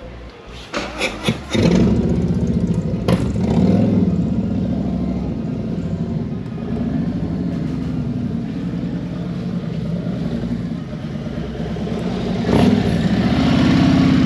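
Motorcycle engine started after a few short clicks, catching about a second and a half in, then idling steadily with the revs rising briefly near the end.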